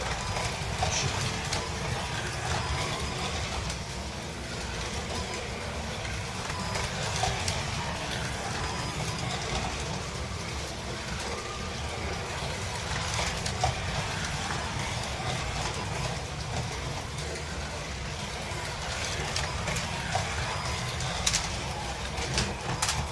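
Carrera Digital 132 slot cars racing on a plastic track: small electric motors whirring steadily, with the rattle of guides and tyres and scattered clicks from the cars on the track.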